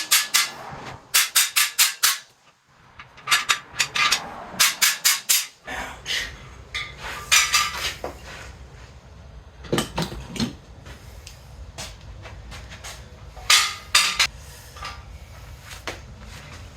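Hammer blows on a cam bearing driver, knocking a cam bearing back out of a 6.0 LQ4 engine block because it did not seat right. The blows come in quick runs of several sharp metallic strikes, with pauses between the runs.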